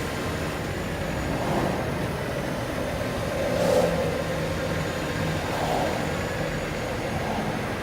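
Motor vehicle engine running steadily, with a brief swell in level just before four seconds in.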